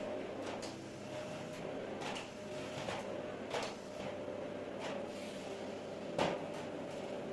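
Light knocks and clicks of household items being handled, about six of them, the sharpest one near the end, over a steady hum.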